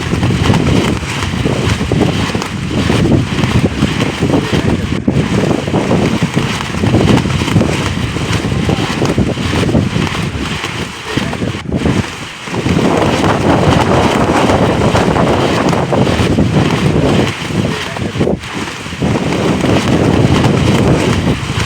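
Strong gusting wind buffeting the microphone, a loud low rumble that surges and eases, with a brief lull about twelve seconds in.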